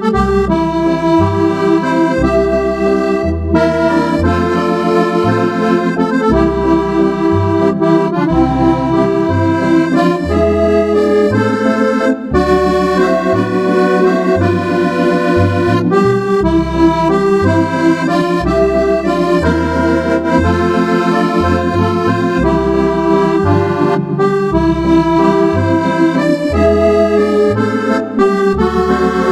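Roland FR-8X digital accordion playing a waltz on a vintage Cordovox voice, a blend of accordion and electronic organ tone. Bass notes step along about once a second under sustained chords and a melody.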